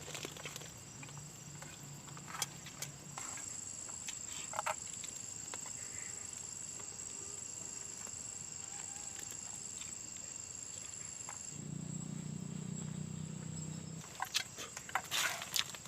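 An insect, cricket-like, giving a steady high-pitched trill with a faint pulsing beat above it for several seconds, which stops abruptly. A low hum comes in as the trill ends, and a few sharp clicks and knocks, like handling or movement, come near the end.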